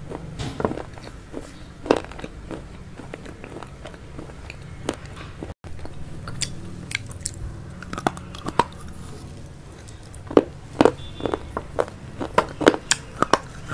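A person chewing veg chowmein close to the microphone: scattered crisp crunches and wet mouth clicks, sparse at first and coming thick and fast from about ten seconds in, over a steady low hum.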